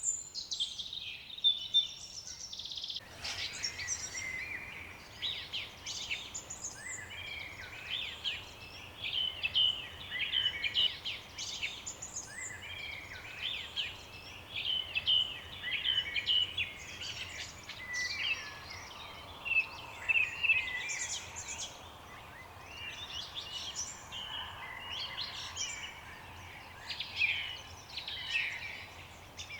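Several birds singing together in a dawn-chorus style, with many overlapping chirps and trills. A soft background hiss comes in suddenly about three seconds in.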